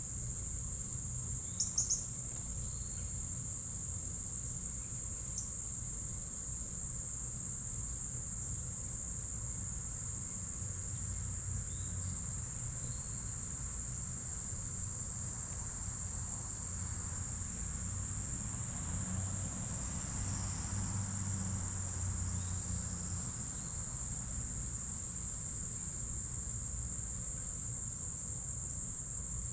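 Insects trilling in one continuous high-pitched drone, with a few short sharp chirps about two seconds in.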